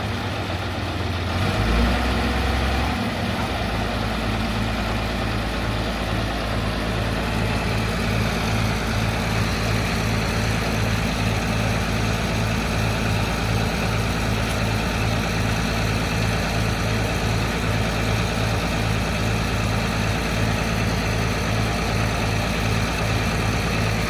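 Mitsubishi Canter dump truck's diesel engine idling steadily, with an even low pulsing throb.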